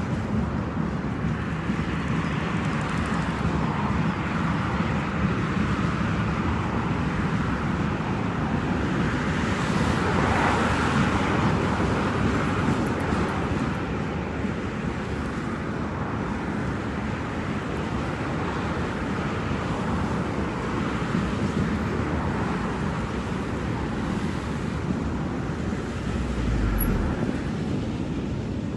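Freight train rolling past: a steady rumble and rush of wagons and wheels on the track, swelling a little about ten seconds in.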